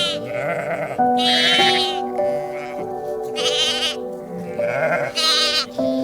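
Three high, quavering bleats from a sheep or goat, each about half a second long, over steady background music.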